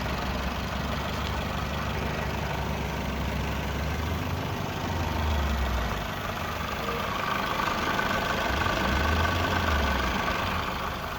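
Toyota Vitz's 1SZ-FE 1.0-litre four-cylinder engine idling evenly, a little louder in the second half. It runs smoothly, a sign of an engine in good condition with no blow-by gases.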